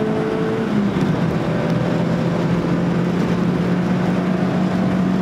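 Suzuki Swift GTi rally car's engine heard from inside the cabin, driving flat out down a straight. It holds a steady note, which drops slightly in pitch about a second in.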